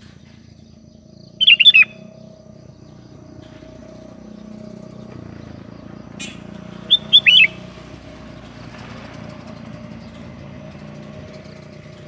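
Sooty-headed bulbul (kutilang) giving two short, loud calls of a few quick notes each, about a second and a half in and again about seven seconds in, over a faint steady hum.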